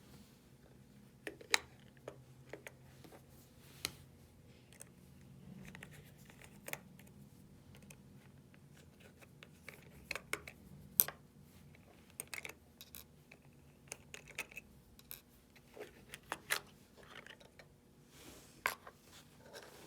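Irregular clicks, taps and light scrapes from a small device being handled and opened for a battery change, with sharper clicks now and then.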